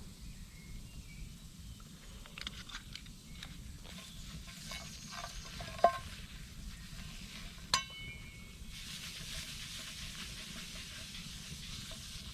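An iron frying pan being handled: scattered light clicks, then two sharp metallic clinks, the second ringing briefly. From about nine seconds in a steady high hiss sets in.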